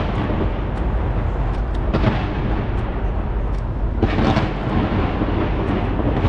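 Fireworks bursting from the skyscraper in a continuous rumbling barrage of booms with crackling, with fresh waves of bursts about two and four seconds in.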